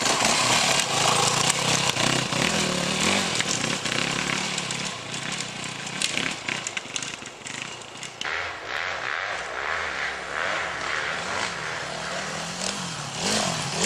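Off-road motorcycle engines revving on a motocross/enduro track, the engine pitch rising and falling as the bikes ride.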